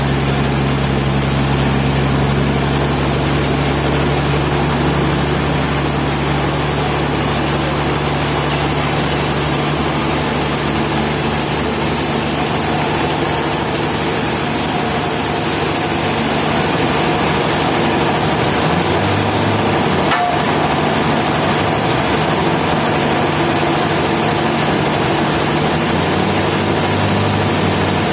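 Sawmill machinery running steadily with a low engine hum, and a single sharp click about twenty seconds in.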